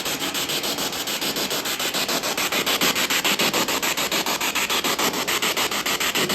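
Spirit box sweeping through radio stations: harsh static hiss chopped into quick even pulses, about eight a second.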